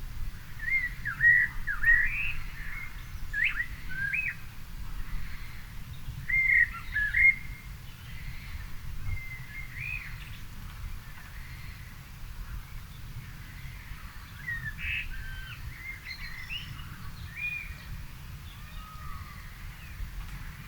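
Songbirds singing in a garden: short whistled, swooping phrases, busiest and loudest in the first seven seconds or so, then sparser, quieter calls. A low steady rumble sits underneath.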